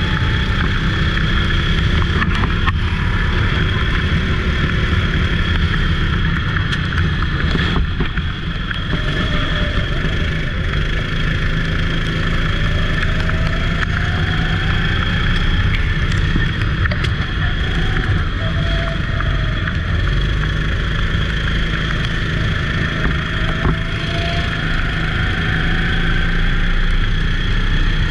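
Go-kart engine running steadily at race pace, a loud continuous drone that dips briefly about eight seconds in, with faint rising engine notes from other karts now and then.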